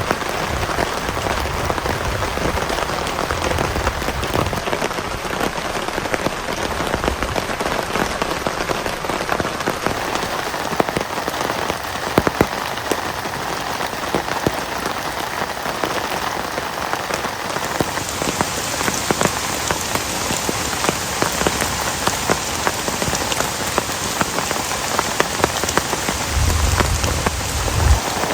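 Heavy rain falling steadily, with many separate drop hits. The hiss gets brighter about two-thirds of the way through, and a brief low rumble comes near the end.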